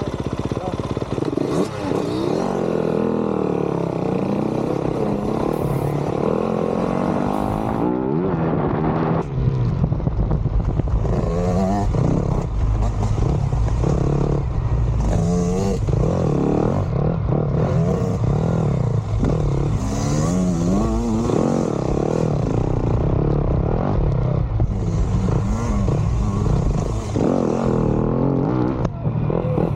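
Yamaha dirt bike engine being ridden hard, its pitch rising and falling every second or two as the throttle is opened and closed.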